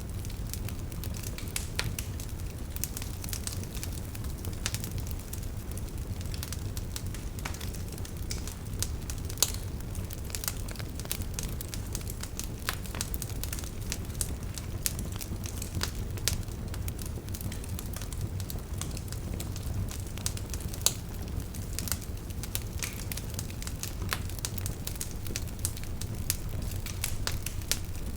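Wood fire burning steadily with a low rumble of flame under constant crackling and scattered sharp pops from the burning wood.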